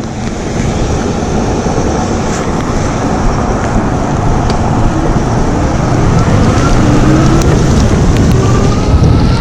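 Wind noise on the microphone and road noise from riding an electric bike on a wet road, with a faint whine rising in pitch through the second half.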